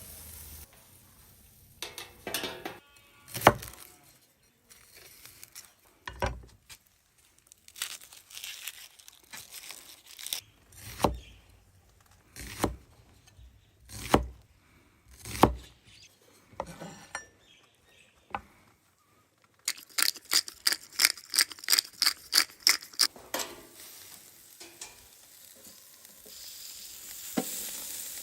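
Cooking sounds: scattered knocks and clatter of kitchen utensils, a quick run of about a dozen taps at three to four a second around two-thirds of the way through, then food starting to sizzle near the end.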